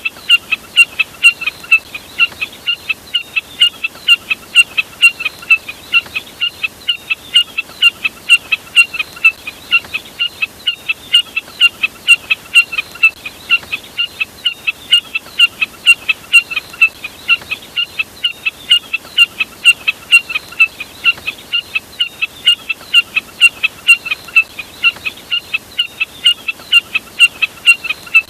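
Jack snipe (burcet) calling: a fast, steady series of sharp, high notes, about three a second, kept up without a break, as used in a bird-lure recording.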